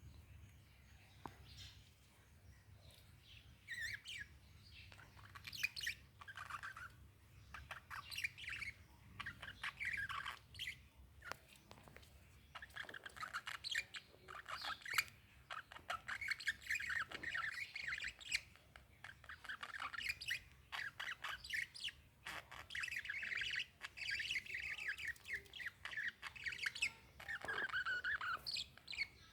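Pet lovebirds chattering in quick high chirps and squawks, starting a few seconds in and then going on almost without a break.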